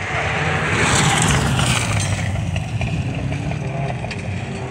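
Subaru Impreza GC8 rally car's engine running hard as it drives the gravel course, loudest about a second in and easing off after about two seconds.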